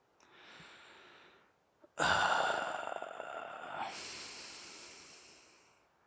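A person breathing in softly, then blowing out hard in a long airy rush of about four seconds that starts suddenly and slowly tails off.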